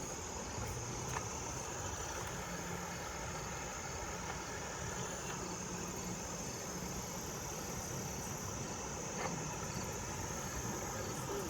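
Insects chirring steadily, a constant high-pitched drone, over an even rushing noise.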